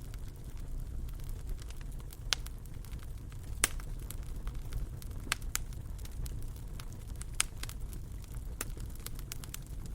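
Wood fire in a fireplace crackling: sharp pops every second or so over a steady low rumble, with the loudest pop about three and a half seconds in.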